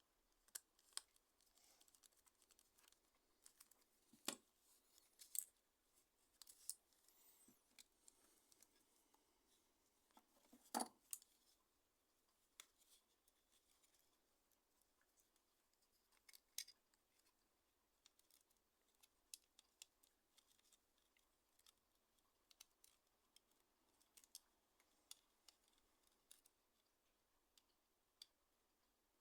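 Faint, irregular clicks and scrapes of small tools and plastic parts being handled while a Nokia N95 8GB phone is taken apart, with a few sharper clicks standing out.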